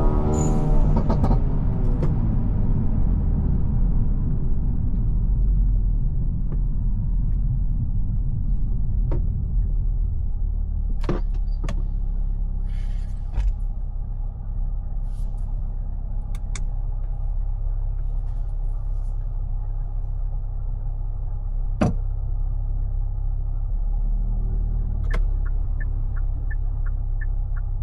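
Hyundai Lafesta N Line's 1.5 T-GDi turbo engine and exhaust droning low and steady after a hard acceleration, with a short hiss as the revs drop right at the start. A few sharp clicks come through, and a quick, even ticking starts near the end.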